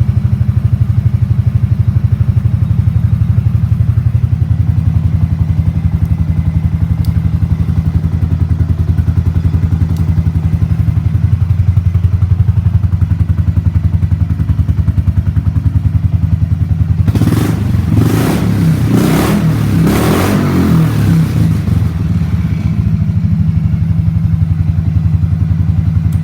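Buell Blast's single-cylinder engine idling with a steady, fast thump, then revved in four or five quick throttle blips about two-thirds of the way through before it settles back to idle.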